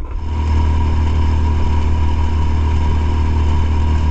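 Small outboard motor on a tinny running steadily at trolling speed, a constant low drone with an even mechanical whine above it.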